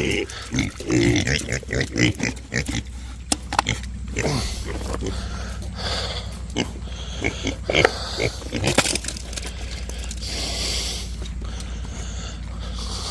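Pigs grunting and vocalising as they crowd in to eat scraps, with scattered sharp knocks and a steady low rumble underneath.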